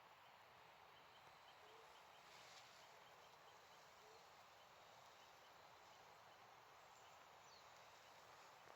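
Very quiet outdoor morning ambience: a soft steady wash with a faint run of small, evenly spaced high chirps (about four a second) through the first half, and a few faint animal calls.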